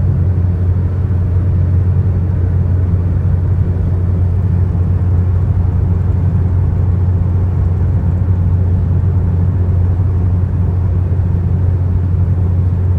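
Car travelling on a highway: a steady low rumble of road and engine noise that holds constant throughout.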